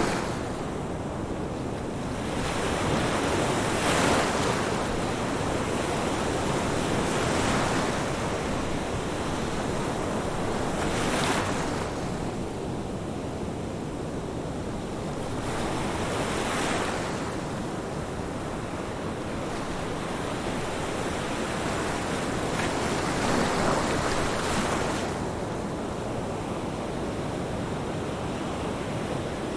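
Ocean surf: waves break and wash in about five times, every few seconds, each a rush of hiss that swells and fades over a constant background wash.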